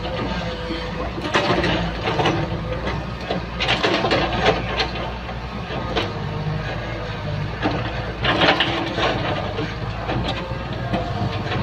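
Excavator's diesel engine running steadily under load, with repeated bursts of scraping and knocking as the bucket works soil.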